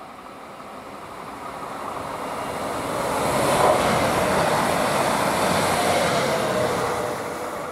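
Passenger train passing at speed: the rushing rumble of its wheels on the rails swells over the first few seconds, holds, then fades near the end.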